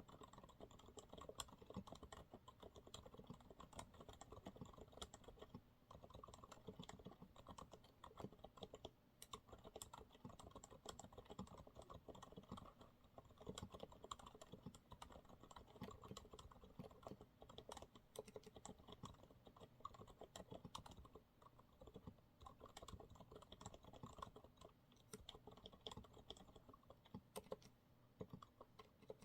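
Continuous, rapid typing on a Monsgeek MG108W mechanical keyboard with TTC silent brown switches: quiet, dense keystrokes with no pauses.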